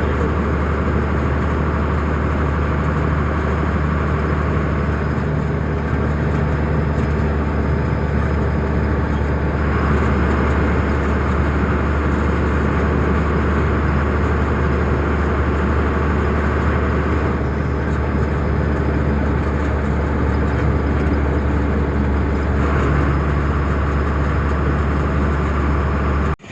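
Tata truck's diesel engine and road noise, a loud, steady low drone that stays even throughout and cuts off abruptly at the very end.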